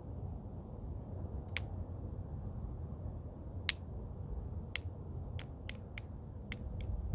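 Flintknapping strikes with a homemade bopper on a stone preform: about eight sharp clicks as flakes come off, spaced out at first and coming quicker near the end.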